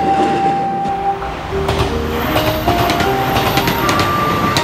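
A passenger train running past on the line: a steady rumble with the wheels clicking irregularly over rail joints from about a second and a half in. A gentle background music melody plays over it.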